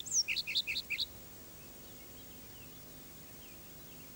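A small songbird singing a quick run of short high notes, the first one gliding down, that stops about a second in. Fainter chirps from farther off follow over a low steady background.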